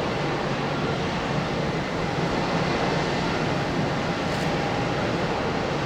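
Steady jet engine noise from a Boeing 787 airliner landing, an even rushing rumble that holds level throughout.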